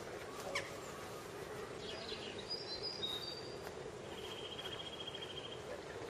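Small birds chirping outdoors: a quick falling chirp near the start, a few short high calls around the middle, and a rapid high trill in the second half, over faint steady background noise.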